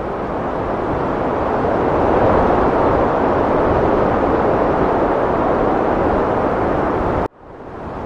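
Heavy wind blowing as a steady rushing noise that swells over the first couple of seconds, then cuts out suddenly about seven seconds in and fades quickly back in, as at a loop splice.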